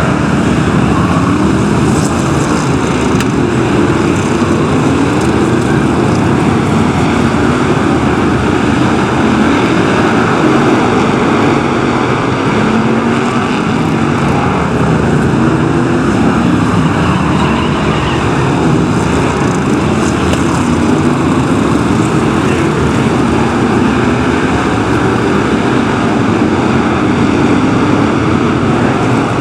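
A pack of BriSCA F1 stock cars racing, their big V8 engines running hard without a break. The engine notes rise and fall as the cars lap.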